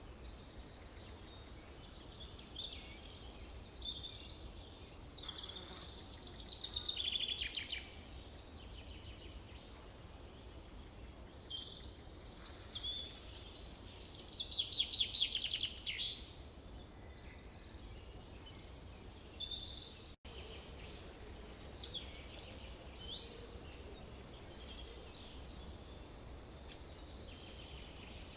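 Forest songbirds calling and chirping, with two louder songs of rapidly repeated trilled notes, about a quarter and about half of the way through, over a faint steady low rumble.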